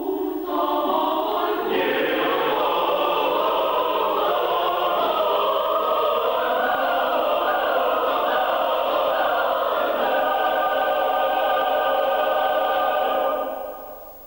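Choir singing in full chords, the harmony shifting, then settling on a long held chord about ten seconds in that dies away near the end.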